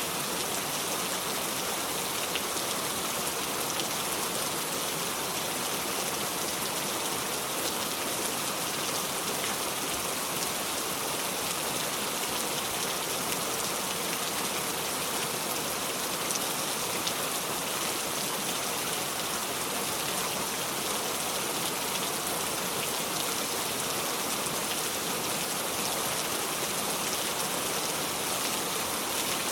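Steady heavy rain falling on a surface, an even hiss of many drops with no thunder.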